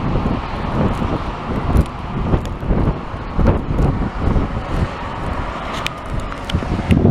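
Strong gusty wind in a snowstorm, buffeting the microphone with a low rumble that swells and falls.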